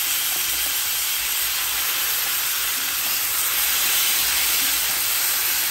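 Raw bone-in chicken pieces sizzling steadily in hot fat in a kadai, frying on high flame.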